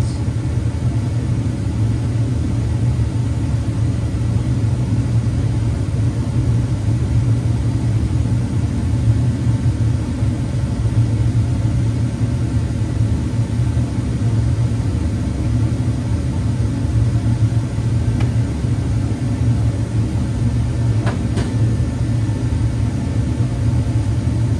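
Dodge Durango engine idling steadily under an open hood while its cooling system is refilled with coolant.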